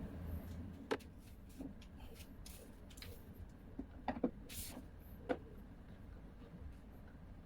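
Scattered light clicks and knocks with a few short scraping sounds: hand work on washing machine parts. The sharpest knocks come about a second in and twice more in the middle.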